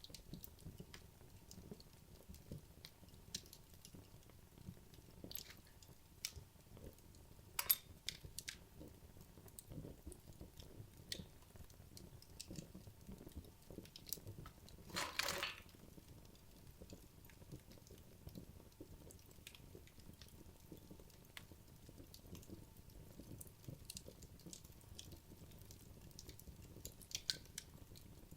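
Wood logs burning in a fireplace, crackling faintly with scattered pops. There is a sharper pop about eight seconds in and a brief hissing burst about halfway through.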